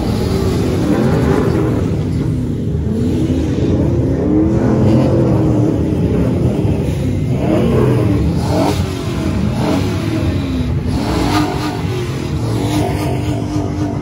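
Several car engines revving together, their pitches rising and falling over one another.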